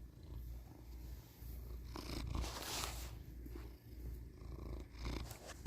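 A 15-year-old house cat purring close to the microphone: a steady low rumble that dips briefly every second or two.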